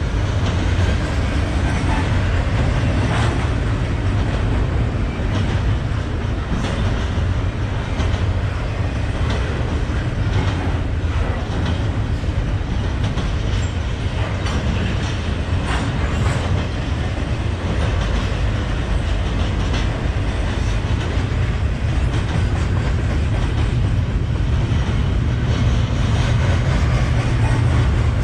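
Freight train rolling past: a steady low rumble with irregular wheel clicks over rail joints.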